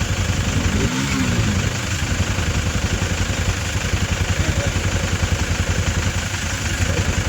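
Motorcycle engine running steadily while riding, with wind and road noise. A brief tone rises and falls about a second in.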